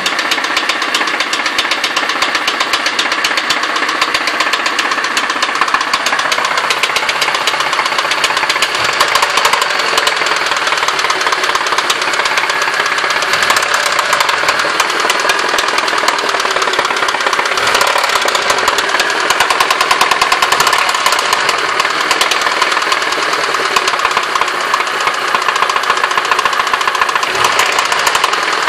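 Honda D16Y8 1.6-litre four-cylinder engine running with a steady, rapid rod knock. The cause is a spun connecting-rod bearing, worn down to the foil, that leaves the rod loose on the crankshaft.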